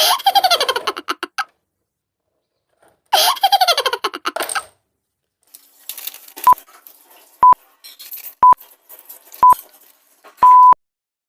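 Two cartoon sound effects, each a falling-pitch sound with a fast rattle of clicks, followed by a countdown of beeps: four short, single-pitched beeps about a second apart and a fifth held longer.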